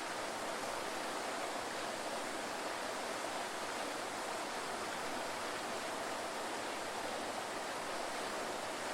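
Waterfall: a steady, even rush of falling water, with little deep rumble.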